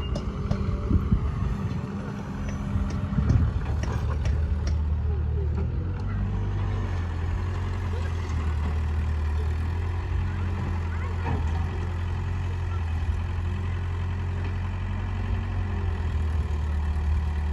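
Heavy diesel engine running steadily, with a few sharp knocks in the first few seconds.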